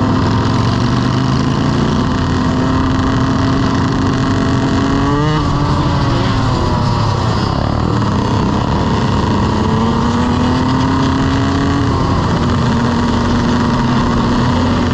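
A motorcycle engine running under way, its pitch rising about five seconds in, dropping off, then climbing again before holding steady near the end.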